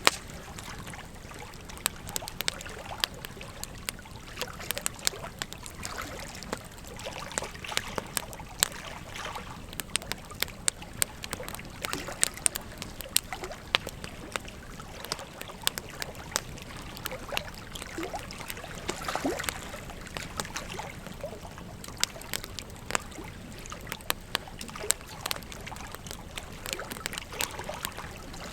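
Wood fire crackling with frequent sharp, irregular pops over the steady rush of flowing river water.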